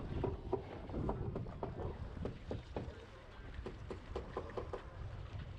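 Honda CB500F parallel-twin engine running through a Delkevic carbon-fibre slip-on exhaust, a steady low rumble with irregular crackles several times a second.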